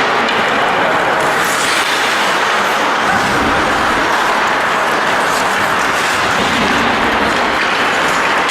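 Steady, loud noise of an ice hockey game in a rink, with a few faint clicks.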